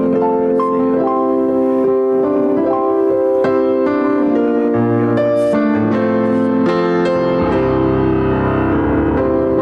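Keyboard playing slow, sustained worship chords over a moving bass line, an instrumental passage continuing after a sung worship song.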